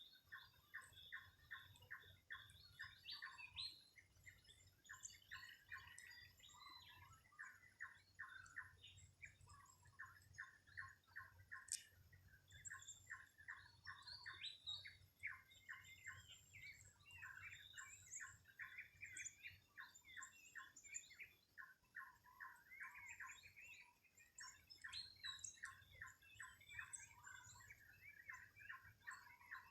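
Morning birdsong, faint: a near-continuous run of quick, short chirps, several a second, with scattered higher calls over them.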